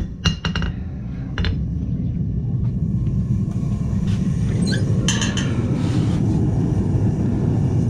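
The last few hammer blows on metal at the anvil, then a steady low rumble that builds up and holds, with light metal clinks of tools and stock about halfway through.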